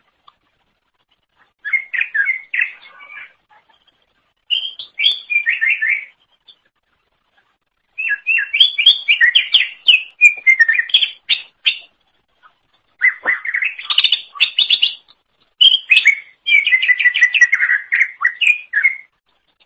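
Green leafbird (cucak ijo) singing in energetic bursts of rapid chirps and whistled notes, in about five phrases with short pauses between them, the longest and densest in the second half.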